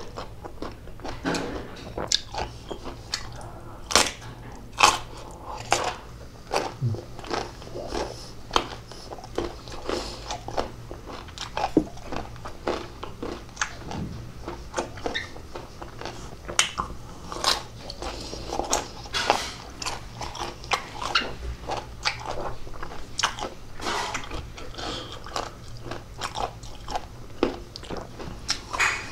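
A person biting and chewing crunchy food close to the microphone, with many sharp, irregular crunches.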